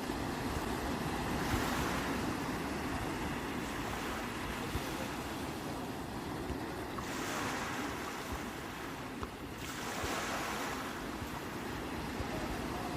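Sea waves washing onto the shore in a steady hiss of surf, swelling twice: about a second and a half in and again about seven seconds in. A low wind rumble on the microphone runs underneath.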